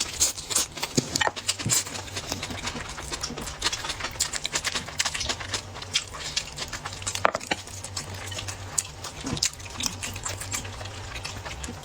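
Close-miked eating of bone marrow: a dense, irregular run of short wet smacks and clicks from the mouth, with one sharper click about seven seconds in.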